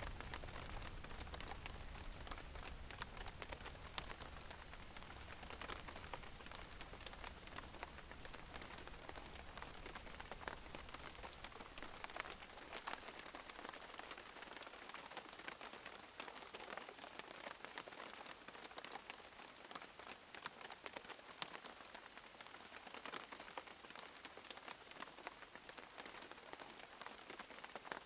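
Steady rain falling, with many separate drops ticking on a surface throughout. A low rumble sits under it for the first half and fades away about halfway through.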